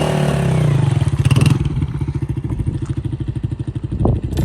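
Motorcycle engine running with an even, rapid pulsing beat, its pitch briefly shifting near the start; a sharp knock near the end.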